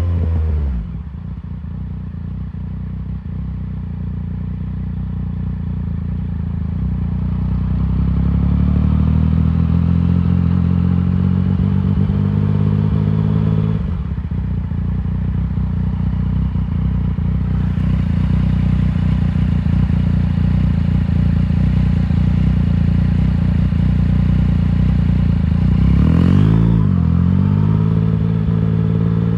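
2019 Yamaha MT-09's three-cylinder engine running through an Arrow full exhaust system under way. Revs drop near the start, then pull slowly higher for about ten seconds. Near the halfway point the revs fall sharply at a gear change, then hold fairly steady, with a quick dip and rise in revs near the end.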